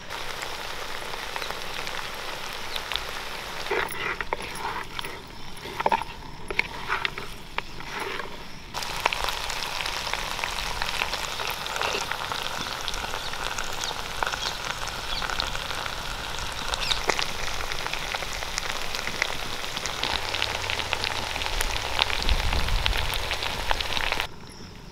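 Parboiled mutton bone pieces frying with masala in a pan, a steady sizzle with dense crackling. The sound changes abruptly about nine seconds in and drops off suddenly just before the end.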